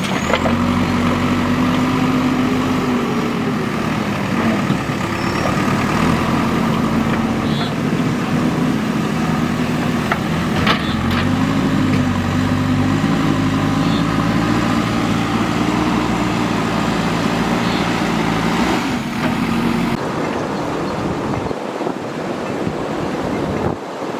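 Diesel engine of heavy construction machinery running, its pitch rising and falling as it works, with a sharp knock or two. About 20 seconds in, the engine sound stops and a thinner, wind-like noise is left.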